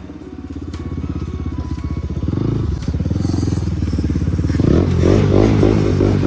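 Bajaj Pulsar NS200's single-cylinder engine running through an aftermarket Akrapovic exhaust, its firing pulses growing steadily louder. The engine note shifts about two-thirds of the way in.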